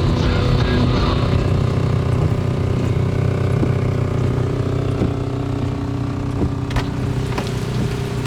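Car engine running with a steady low drone, heard from inside the cabin, with a couple of faint clicks about two thirds of the way through.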